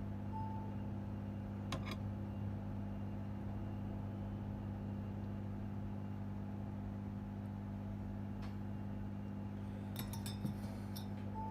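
Steady electrical hum, with a few faint clicks and a short beep-like tone about half a second in and again near the end.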